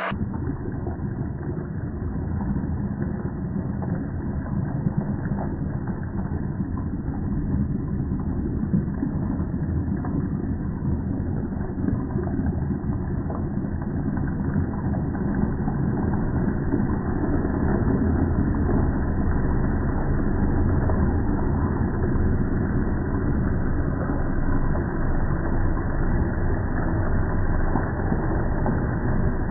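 Double Horse 7007 engine running steadily at an even speed, a continuous low drone.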